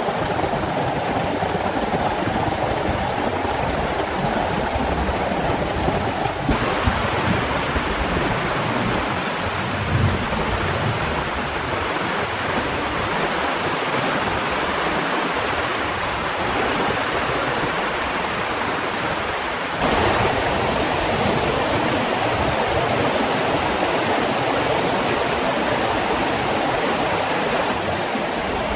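Heavy rain falling steadily, a dense hiss. Its sound changes abruptly twice, about six and a half seconds and about twenty seconds in.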